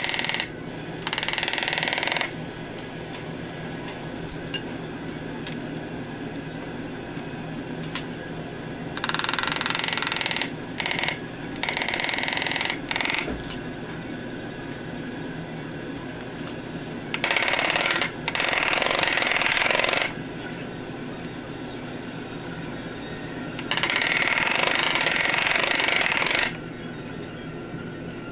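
Compressed-air tool hissing in several bursts of one to three seconds each, over a steady low hum of shop machinery.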